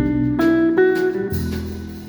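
A small instrumental trio playing live. Plucked notes pick out a melody line, and a low bass note comes in about halfway through.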